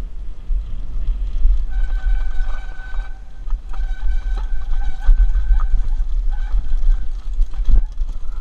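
Wind rushing over a helmet-mounted camera on a downhill mountain-bike run, with the bike rattling over the trail. A high squeal comes and goes through the middle seconds, and there is a sharp knock near the end.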